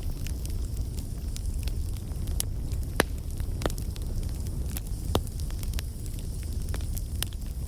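Bonfire crackling, with sharp pops scattered irregularly over a steady low rumble; the loudest pop comes about three seconds in and another about five seconds in.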